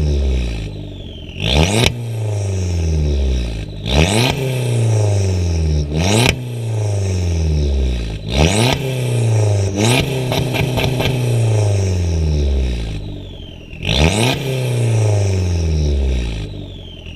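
Abarth 695 Biposto's turbocharged 1.4-litre four-cylinder revved hard again and again through a stainless sports exhaust: each time the pitch shoots up, then falls away over a second or two. About ten seconds in, a quick burst of exhaust crackles and pops.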